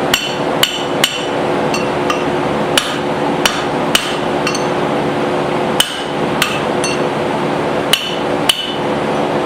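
Hand hammer striking hot steel on an anvil, about a dozen irregular blows with a bright metallic ring and a short pause in the middle, shaping the faces of a small forged hammer head. A steady hum runs underneath.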